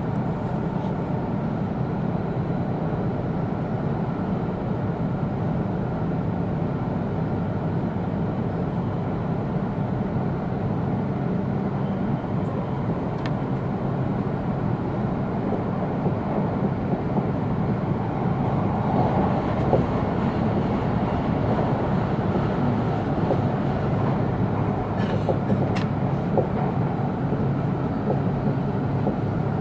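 Cabin noise inside an E2 series Shinkansen passenger car on the move: a steady running rumble, with a few faint clicks.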